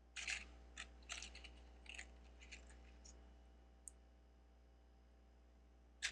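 Small plastic Lego pieces clicking as they are picked through and handled: a quick run of light clicks in the first three seconds, one more click a little later, then almost nothing until a few more clicks right at the end.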